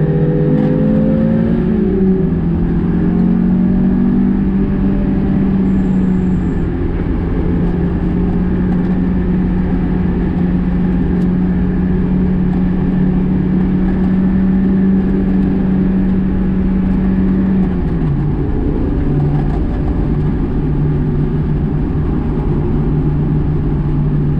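Car engine heard from inside the cabin while driving: the revs fall at first, then hold steady for a long stretch, dip briefly about eighteen seconds in and pick up again, over constant road and tyre noise.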